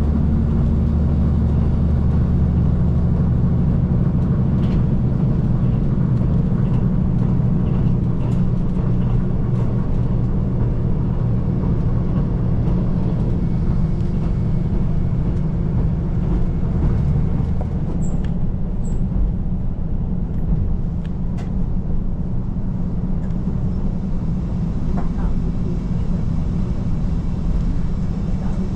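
KiHa 185 series diesel express railcar running, heard from inside the carriage: a steady low diesel engine drone over wheel and track noise. About two-thirds of the way through, the deepest part of the engine note drops away as power eases off.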